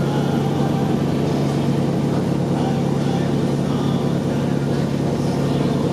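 Passenger ferry's engine running at a steady speed, an even low drone with a hiss of noise over it.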